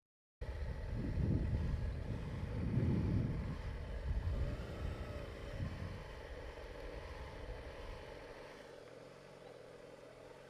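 Gusts of wind buffeting the microphone, heaviest for the first six seconds and then easing, over a low steady hum from an idling motorcycle engine.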